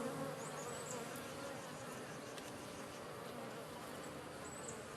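Honey bees buzzing around an open hive during an inspection, a steady low hum.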